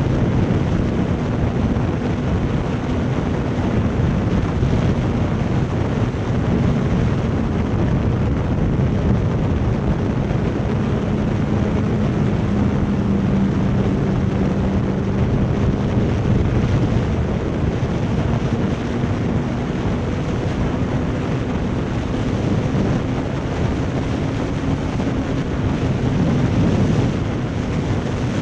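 Motorcycle riding at a steady cruise: a constant engine hum that drifts slowly in pitch, under heavy wind rush on the microphone.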